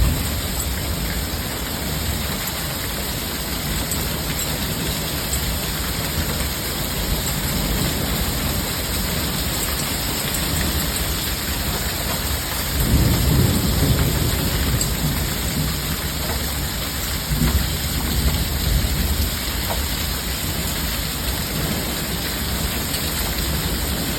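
Heavy rain and hail coming down steadily in a thunderstorm, with a low rumble of thunder swelling about halfway through and fainter rumbles after it.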